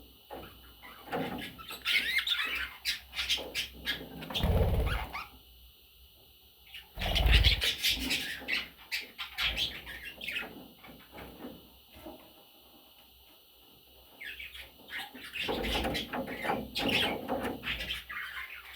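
Pet budgerigars chirping and chattering in three spells of rapid, high chirps with short quiet gaps between. Two brief low thumps sound in the middle, the second the loudest moment.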